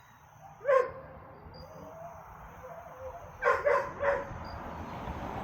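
Dog barking: a single bark about a second in, then three quick barks in a row near the end.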